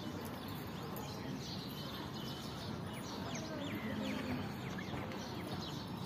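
Small birds chirping: many short, quick calls sweeping up and down in pitch, over a steady low outdoor background noise.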